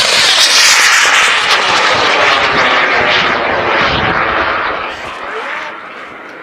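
K-550 KNSB sugar-propellant rocket motor burning through liftoff: a loud, rushing roar that fades away over the last two seconds as the rocket climbs.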